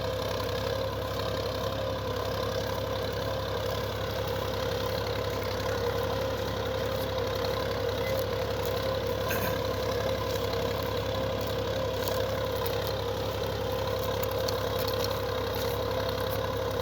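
Solis tractor's diesel engine running steadily while working a mouldboard plough, with a few faint rattles partway through.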